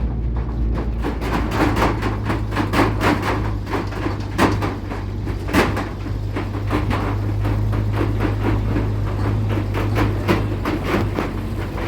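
Vehicle engine running with a steady low hum under a dense, irregular rattling and clattering, with two sharper knocks a little past four seconds in and again about a second later.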